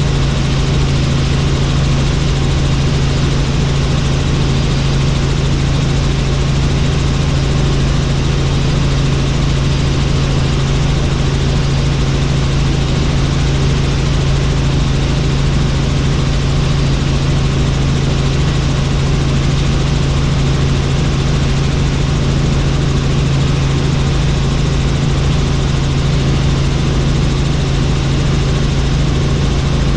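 Helicopter turbine engine and rotor running steadily, heard from on board: a loud, even low hum under a constant wash of noise.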